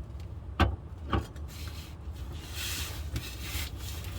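Two clunks, then a scraping rub lasting about a second and a half, as the 7-speed automatic transmission is shifted back under the car.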